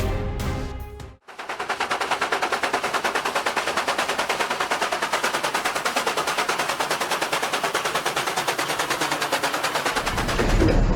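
Music cuts off about a second in. A rapid, even clatter of sharp clicks, about ten a second, follows, with a low rumble joining near the end.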